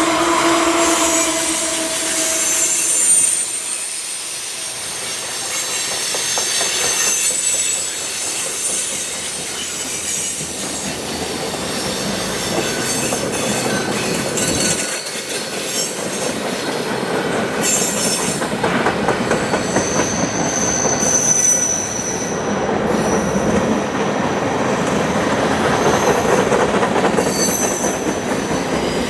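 Freight train cars rolling past, steel wheels squealing on the rail with a high thin whine that comes and goes, over a steady rumble and some clicking. A locomotive horn chord cuts off in the first half second.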